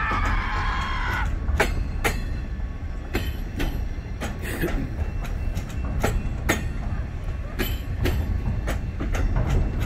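Slow freight train of double-stacked container cars rolling past at close range: a steady low rumble with irregular clicks of wheels over the rail joints. A brief high squeal sounds in the first second.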